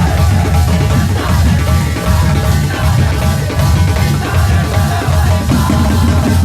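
Loud street band music with heavy, fast, driving drumming and a wavering melody line over it.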